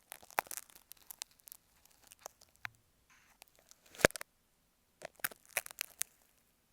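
Marking pin scratching and tapping on an earphone microphone: irregular crisp clicks and scratches in clusters, with one sharp click about four seconds in.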